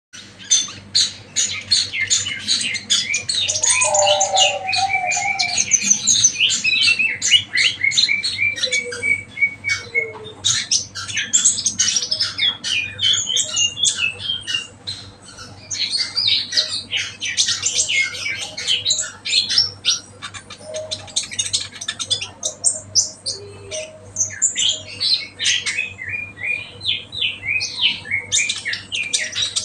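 Songbirds chirping and singing in a continuous stream of fast, high twittering notes and trills, with an occasional short lower whistle.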